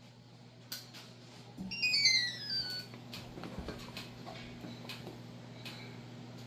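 A short electronic chime: a quick run of stepped beeps falling in pitch, heard about two seconds in, over a steady low hum, with scattered clicks.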